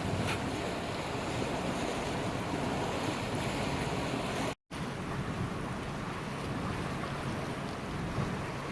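Strong wind buffeting the microphone over the wash of the sea, with a low steady hum underneath. The sound cuts out completely for a split second about halfway.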